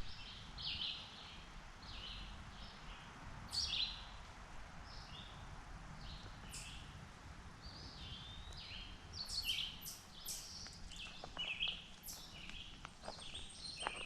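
Birds chirping and calling, many short notes and slurred glides overlapping, over a low steady rumble. A few light clicks come in near the end.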